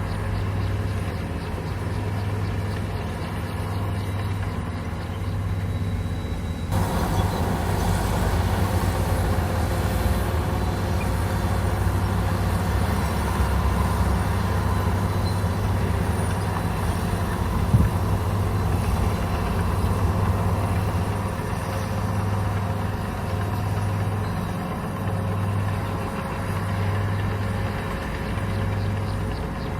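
Komatsu bulldozer's diesel engine running with a low throb that pulses about once a second. A little under a third of the way in, a louder rattling noise joins it as the machine works, and there is one sharp knock just past the middle.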